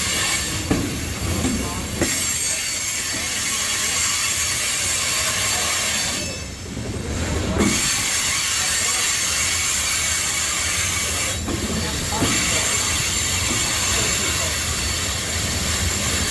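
Freight train of tank cars creeping past at a crawl, the wheels rolling and squealing thinly on the rails with an occasional clickety-clack over the rail joints.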